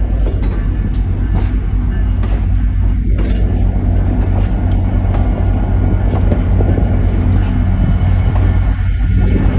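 Grand Canyon Railway F40FH diesel locomotives running with a loud, steady low engine drone, with scattered clicks from the train's wheels and rails.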